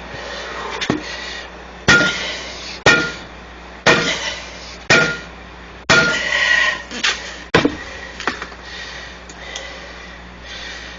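Heavy metal-on-metal blows from hand tools on a truck tire's bead breaker and steel rim: about seven hard strikes roughly a second apart, each ringing briefly, then a few lighter knocks. The rubber is cold and stiff, so the bead is hard to break loose.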